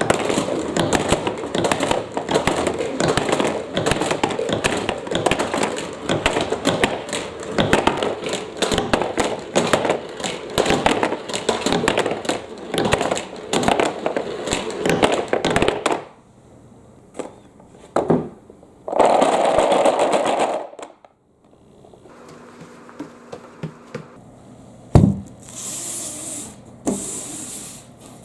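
Many marbles clattering and rolling down a wooden marble run: a dense rattle of clicks and knocks that stops suddenly about sixteen seconds in. After that come a single short rolling rush and a few separate knocks.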